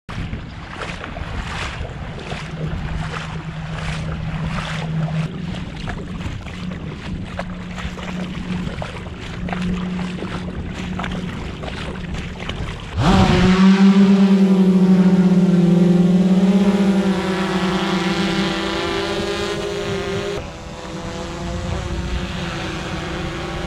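Jet ski engine running, with choppy wind and water noise. About halfway through it turns suddenly much louder, a strong steady whine that wavers slightly, then drops back a little near the end.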